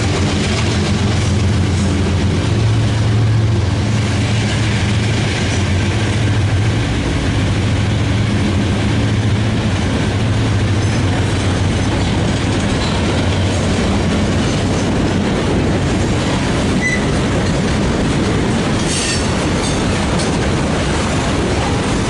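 Freight train passing close by. A diesel locomotive's engine drones low through the first half, then the cars roll by with a steady rumble and clatter on the rails.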